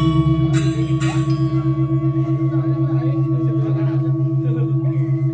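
Large Balinese gamelan gong ringing out after a struck stroke, its deep tone throbbing in a fast, even pulse as it slowly fades. A couple of short metallic crashes come in the first second.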